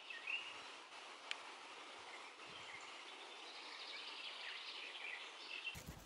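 Small songbirds chirping and trilling over a faint, steady outdoor hiss, with one short click just over a second in.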